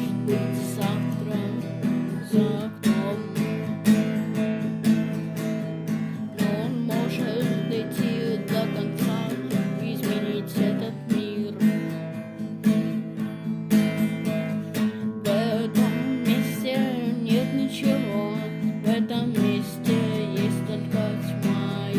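Instrumental rock passage: strummed guitars under a wavering lead guitar melody, with bass and a drum machine keeping a steady beat.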